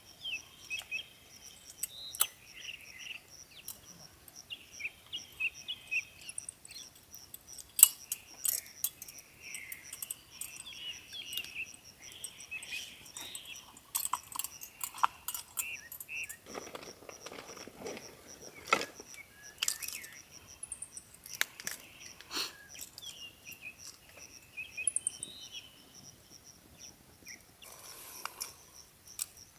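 Outdoor campsite ambience: an insect calling in a steady, high pulsing trill throughout, birds chirping on and off, and scattered sharp clicks and rustles from things being handled, with a longer rustle about 17 to 19 seconds in.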